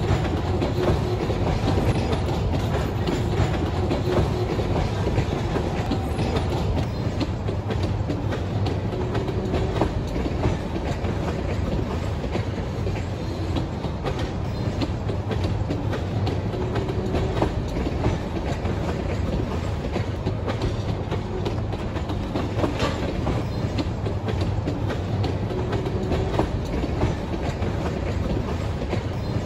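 Freight train of railroad tank cars rolling past: a steady rumble of steel wheels on rail, with clicking as the wheels pass over rail joints.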